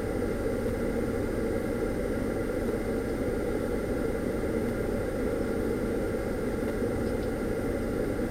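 Dodge minivan idling while parked, heard from inside the cabin as a steady, even engine hum, with a thin steady high whine over it.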